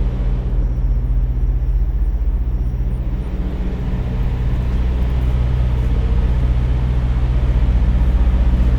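Semi-truck's diesel engine running steadily with a low, even throb, getting a little louder about halfway through.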